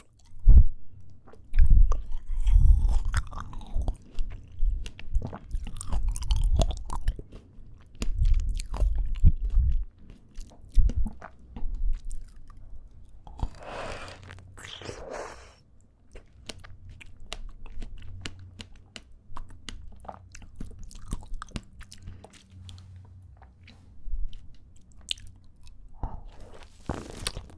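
Close-miked chewing and biting of fresh fruit, strawberries and apples, with crisp crunches and many sharp wet mouth clicks. The chewing is heaviest in the first ten seconds and softer afterwards.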